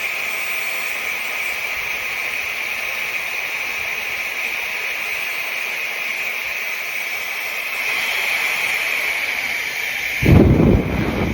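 Hair dryer of an air styling and drying system running steadily, a rush of air with a constant high whine from its motor. About ten seconds in, a louder low rumble starts, typical of the airflow hitting the microphone.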